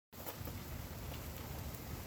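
Steady rain falling, a constant hiss with scattered ticks of individual drops and a low rumble underneath; it starts abruptly just after the beginning.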